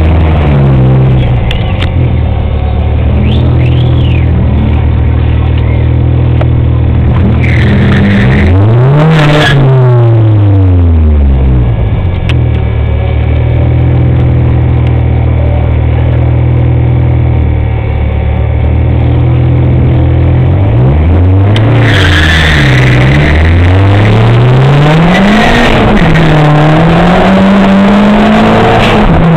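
Car engines of drag-racing cars, held at steady revs for long stretches, revved up and back down once, then blipped several times before climbing steadily in pitch near the end as a car accelerates.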